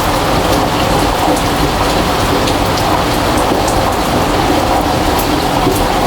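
Heavy rain falling steadily and loudly, a dense even hiss.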